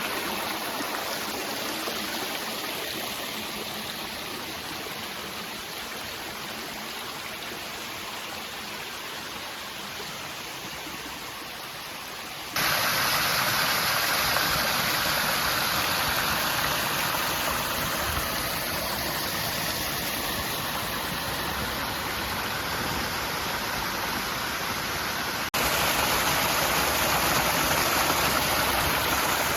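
Rushing water of a rain-swollen mountain stream, a steady even rush with no distinct splashes. The level steps up suddenly about 13 seconds in and again near 26 seconds, as if the listening spot moves closer to the water.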